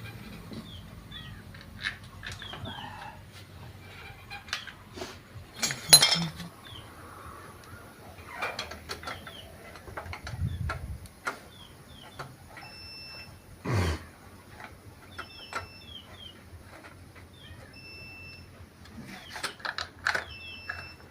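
Scattered metal clinks and taps of hand tools and bolts as a motorcycle clutch cover is being bolted back on, with a couple of louder knocks about 6 and 14 seconds in. Small birds chirp in short falling calls throughout.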